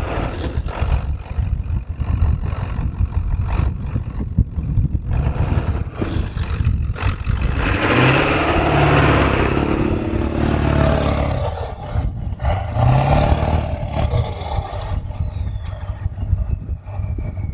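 Ford Powerstroke diesel truck engine revving hard twice under load, trying to drive the truck out of deep snow, with a loud rushing surge during the first rev. A high whine falls slowly in pitch as the revs drop.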